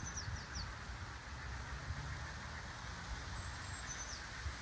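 A small songbird calling high, thin notes that slide downward, once at the start and again about four seconds in, over a low steady rumble.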